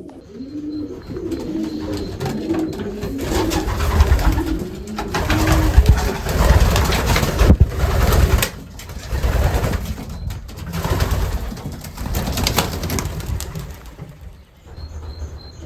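Racing pigeons cooing in the loft, with a loud, irregular rustling and knocking noise through the middle of the stretch.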